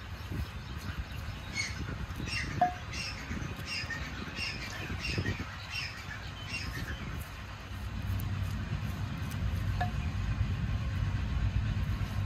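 A bird calls over and over in short squawks, about two a second, for several seconds. From about two-thirds of the way in, a low engine rumble rises underneath.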